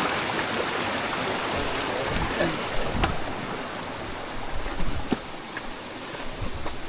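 Steady rush of flowing water from a creek or waterfall, with a few sharp knocks about three and five seconds in.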